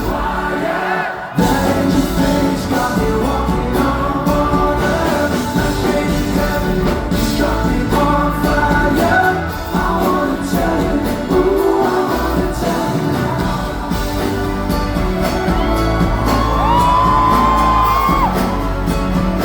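Live pop band performance with lead singing and full backing, recorded in a large hall.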